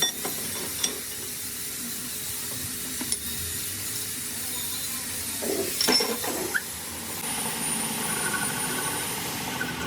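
Workshop noise: a steady hiss with a few sharp metallic clicks, and a louder clatter about six seconds in.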